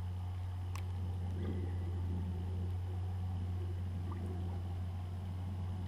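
Carp feeding in a reed bed, sucking at the reed stems in the water, give a sharp pop about a second in and a fainter one near the end, with some soft sloshing in between. A steady low hum runs under it all.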